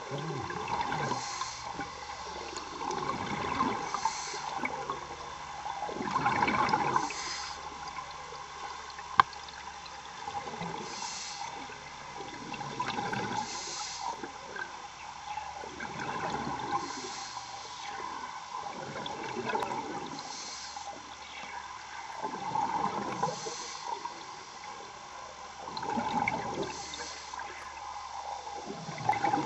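A diver breathing underwater through breathing apparatus, about one breath every three seconds: a short hiss as each breath is drawn, then a bubbling surge as it is exhaled. One sharp click is heard about nine seconds in.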